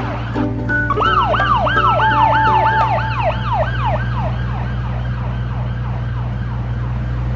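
Police car siren in a fast yelp, quick rising-and-falling sweeps about three a second, over a steady low rumble; the siren grows fainter after about four seconds.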